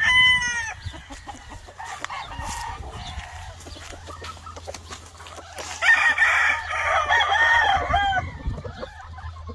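Gamefowl roosters crowing: a crow trailing off at the very start and a loud, long crow starting about six seconds in, with fainter calls from other birds in between.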